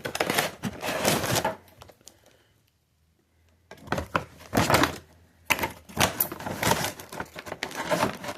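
Shopping bag rustling and objects being handled, with clicks and light clatter; the sound drops out entirely for about a second midway, then the rustling resumes.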